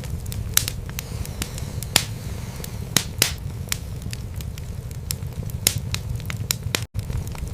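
Wood fire in a fireplace crackling, with frequent sharp pops over a steady low rumble of burning. The sound cuts out for an instant near the end.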